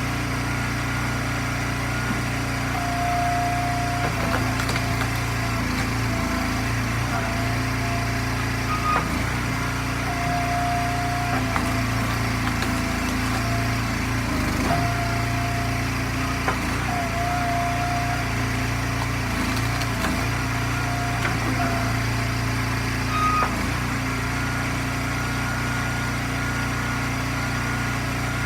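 Small gas engine of an Eastonmade hydraulic log splitter running steadily, its low hum dipping briefly several times as the splitter works.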